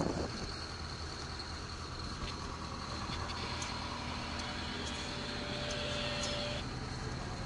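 Boat's engine running steadily underway, a low drone with a thin steady whine above it.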